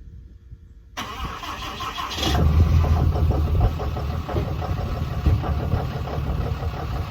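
Cold start of a 2017 Ram 2500's 6.7 L Cummins inline-six turbo diesel at about 1 °F, on the factory exhaust: the starter cranks from about a second in, the engine catches a little over a second later, and it settles into a steady idle.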